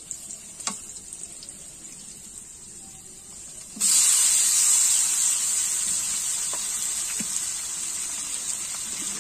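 Marinated chicken pieces tipped into a hot wok, setting off a loud sizzle of frying about four seconds in that slowly eases into a steady hiss. Before that, only faint small handling noises.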